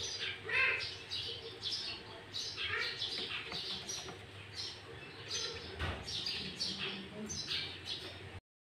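Sooty-headed bulbul (kutilang) singing busily, a quick run of short chirping notes and phrases that cuts off suddenly near the end.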